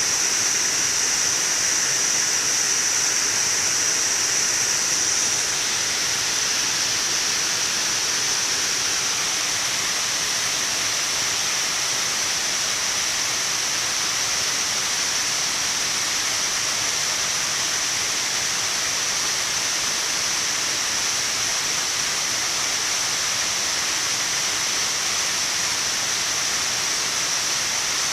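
Waterfall: a steady rush of falling water, easing slightly after about five seconds.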